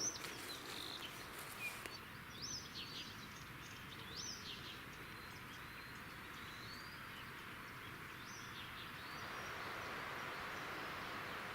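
Small songbirds giving short, high chirps and twitters here and there over a steady background hiss. The hiss grows a little louder about nine seconds in.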